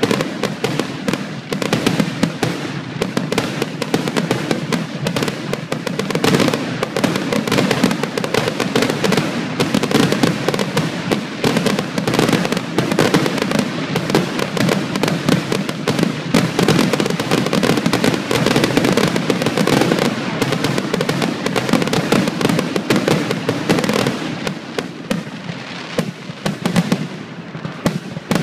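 Fireworks display: aerial shells bursting one after another in rapid, dense succession, thinning a little near the end.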